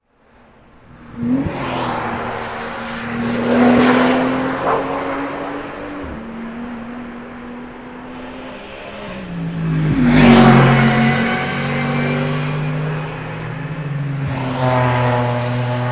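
Race cars passing one after another at speed, engines at high revs, the sound swelling and fading as each goes by, loudest about four and ten seconds in, with another coming through near the end. The sound comes in about a second in.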